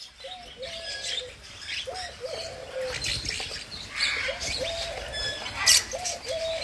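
Birds calling: repeated short, low-pitched calls that rise and then hold, coming roughly in pairs, with higher chirps over them. A brief sharp, loud high sound comes a little before the end.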